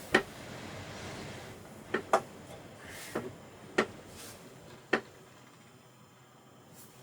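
About six sharp knocks and clicks, spaced irregularly over five seconds, over an even rushing noise that slowly fades in the second half.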